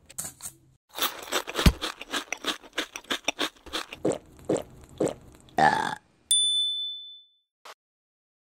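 Eating sounds on a plate: a fork scrapes briefly, then comes a run of crisp crunching chews, about four a second. After a short louder sound, a single high bell-like ding rings out for about a second.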